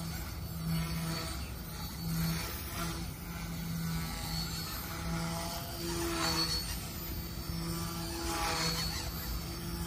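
Yu Xiang F1 RC 3D helicopter with twin brushless motors flying aerobatics: a steady rotor hum and motor whine that swells and fades again and again as it manoeuvres.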